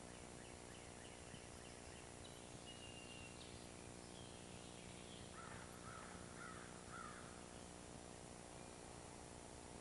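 Faint bird calls in the trees: a few thin chirps and a short whistle, then about five seconds in a run of four calls, over a steady low hiss and hum.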